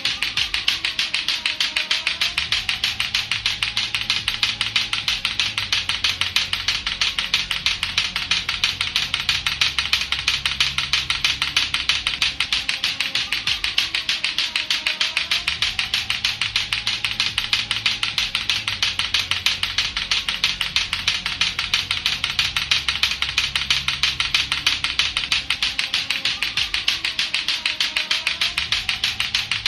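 Lato-lato clackers, two hard plastic balls on a string, knocking together in a rapid, steady, unbroken clacking rhythm.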